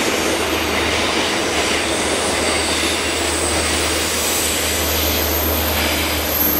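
Passenger train carriages rolling past on the rails, a steady rolling noise with a low rumble underneath.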